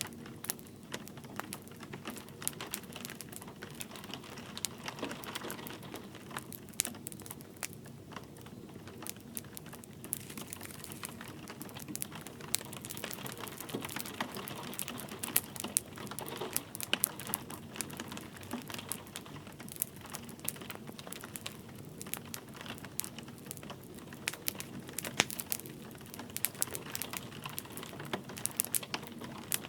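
Wood fire crackling, with frequent irregular small pops, over the steady hiss of light rain.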